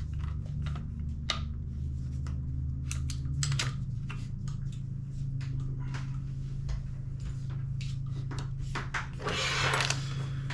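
Scattered small clicks and taps of parts being handled while a Tokyo Marui MWS gas blowback airsoft rifle is taken apart, over a steady low hum, with a brief rustle near the end.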